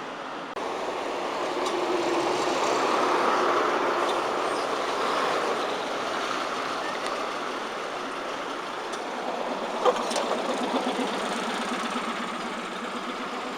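Articulated diesel bus running on the road, a steady engine and road noise that builds over the first few seconds and then eases off. A sharp knock comes about ten seconds in.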